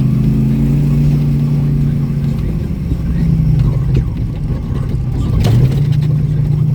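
Vehicle engine running under way, holding a steady pitch, easing off about two and a half seconds in and picking up again about five seconds in, with a few light knocks from the ride near the middle.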